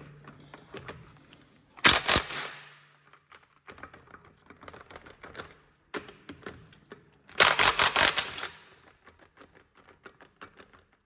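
Impact wrench with a 22 mm socket hammering on a stuck wheel lug nut in two bursts, a few seconds apart. It is running the nut back in and then reversing it to break it loose, because the lug nut's split, rust-swollen cap is binding in the socket.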